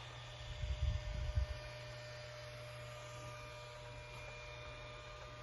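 Steady low electrical hum with faint steady higher tones, with some low rumbling in the first second or so.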